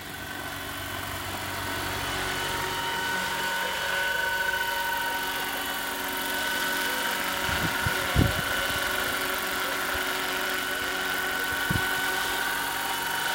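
Radio-controlled Jet Ranger model helicopter running, a steady whine with several tones that grows louder over the first few seconds and then holds. Two brief low thumps come about eight seconds in and near the end.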